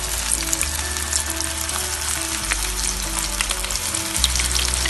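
Chicken shashlik skewers frying in hot oil in a frying pan: a steady sizzle full of small spitting pops. Background music with a low bass line plays underneath.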